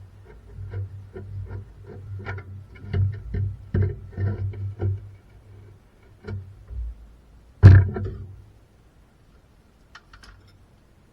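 Workshop handling noise: a run of irregular light knocks and clicks, then one loud bang about two thirds of the way through, over a steady low hum.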